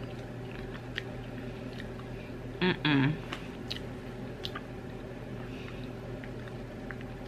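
A person chewing popcorn: faint, scattered crunches and small clicks. A brief two-part hummed vocal sound comes about three seconds in.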